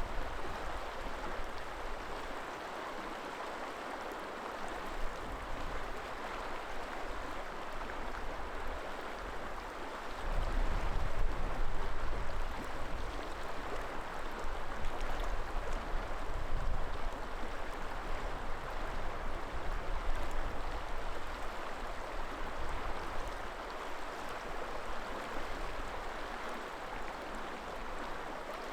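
River water flowing steadily in a continuous rushing. About a third of the way in, gusts of wind rumble on the microphone for roughly ten seconds, then ease off.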